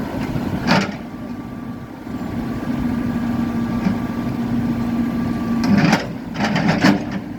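JCB backhoe loader's diesel engine running steadily while it works on a hard road surface, with a sharp knock about a second in and a quick cluster of knocks near the end.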